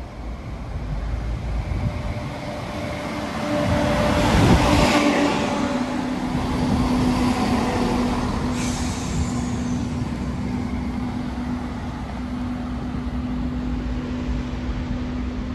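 East Midlands Railway Regional diesel multiple unit passing close by. The rumble of wheels on rail builds to a peak about four seconds in, then a steady engine drone carries on as the carriages go past. A brief falling high-pitched squeal comes about eight and a half seconds in.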